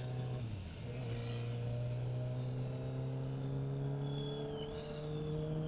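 Motorcycle engine running while riding, heard over wind noise: its pitch dips briefly about half a second in, as with a gear change, then climbs slowly as the bike gathers speed.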